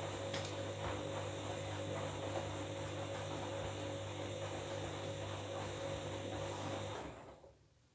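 Washing machine motor turning the drum during the wash of a bed-linen load, a steady hum that stops about seven seconds in as the drum pauses between turns.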